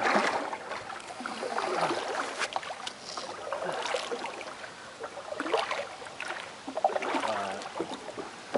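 Water splashing and swishing against a homemade canoe as it is pushed and paddled off with a stick, several strokes about every second and a half.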